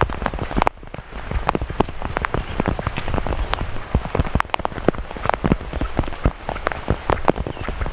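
Heavy rain, with many individual drops striking close by as sharp, irregular ticks over a steady hiss of falling rain.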